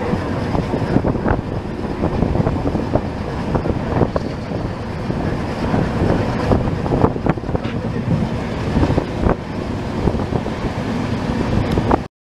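Moving passenger train heard from an open coach door: a steady running rumble of wheels on the track, with frequent irregular knocks and rattles and wind buffeting the microphone. The sound cuts out briefly at the very end.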